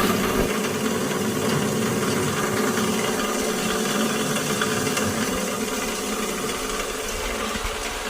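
Dry-leaf grinding machine running with a steady mechanical drone and rattle, slowly getting quieter.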